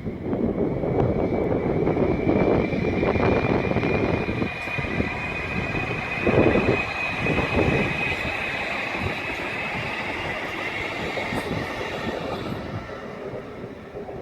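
Train passing along the track: continuous rumble and rail noise with a high steady whine that climbs slightly in pitch, loudest about halfway through and dying away near the end.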